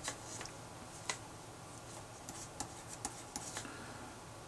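Writing by hand on paper: soft scratching strokes broken by a few sharp taps of the writing tip.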